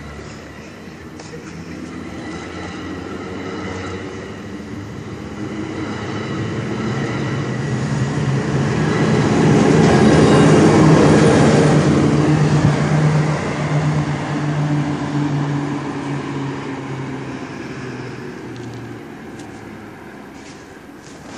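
Diesel-hauled commuter train of bilevel coaches rolling past at close range, growing louder to a peak about halfway through as its locomotive end passes with a steady low engine drone, then fading as the train pulls away.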